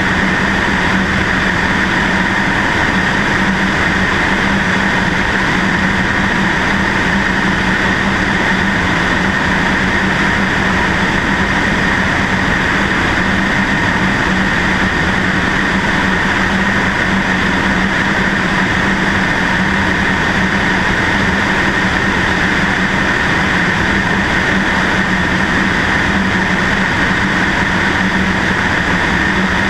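Cessna 152's four-cylinder Lycoming engine and propeller running at a steady, unchanging drone, heard from a camera mounted on the wing.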